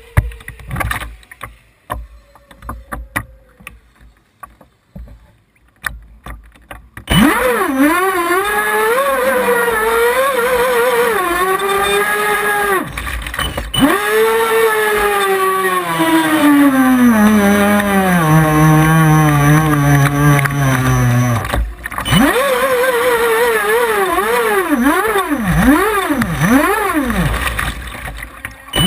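Small high-revving engine close by: after a few seconds of quiet clicks and splashes it starts suddenly and revs rapidly up and down. Partway through it winds down steadily to a low pitch, cuts out briefly, then revs again.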